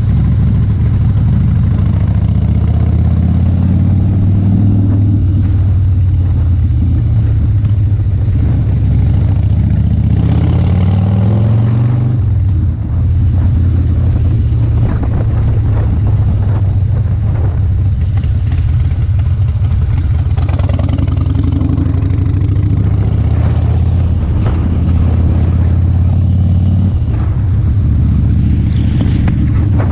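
Harley-Davidson Dyna Street Bob's V-twin engine running under way, rising in pitch as it accelerates about ten seconds in, with a brief dip about thirteen seconds in.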